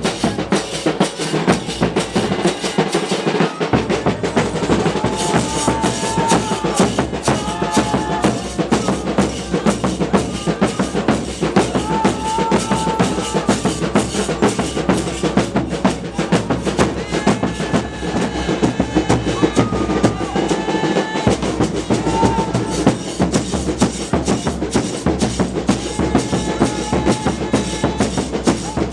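Festival percussion ensemble drumming fast and continuously, with a wind instrument playing short held notes over the drums.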